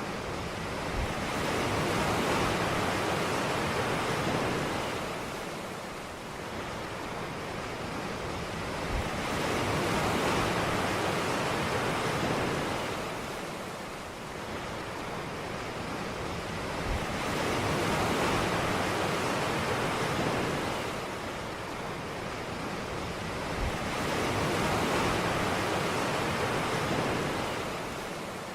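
Ocean waves breaking and washing onto a beach, the surf swelling and fading in slow surges about every eight seconds, four times in all.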